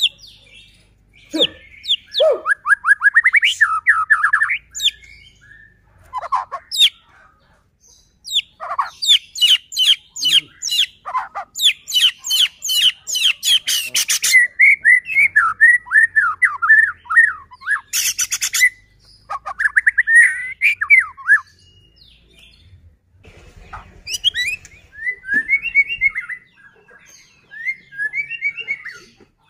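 White-rumped shama (murai batu) singing at full volume: varied whistled phrases and quick sweeping notes in bouts, with fast rattling series about halfway through, broken by short pauses.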